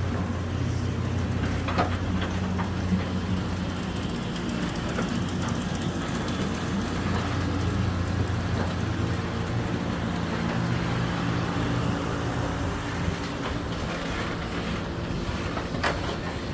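Engine or machinery running steadily, a low continuous drone with a few faint clicks over it.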